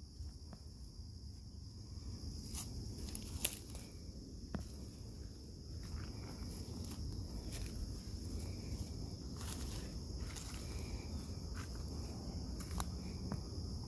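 Footsteps on a woodland trail, with scattered crackles and snaps underfoot, over a steady high-pitched drone of insects.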